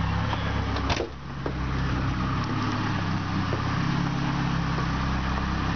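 Opel GT's 2.4-litre four-cylinder engine, running on MaxxECU fuel injection, idling steadily; a short knock about a second in.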